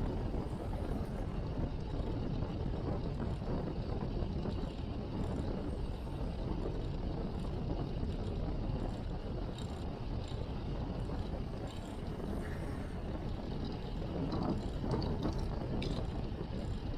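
Wind rushing over an action camera's microphone on a moving road bike, a steady low rumble mixed with road and tyre noise. It swells briefly a little before the end.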